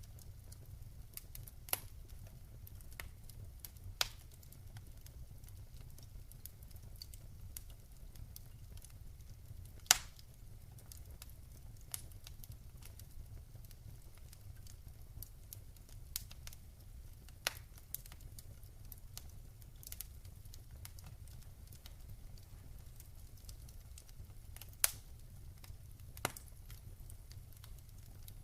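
Wood fire burning in a fireplace, crackling with irregular sharp pops and snaps over a low steady rumble; the loudest snaps come about ten seconds in and near the end.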